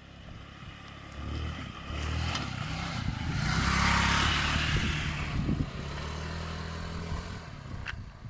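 Motorbike engine running, its sound swelling to a peak about four seconds in and then easing off.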